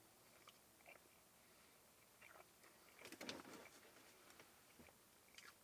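Near silence with faint, soft chewing of a mouthful of bacon cheeseburger slider, a slightly louder patch of mouth sounds about three seconds in.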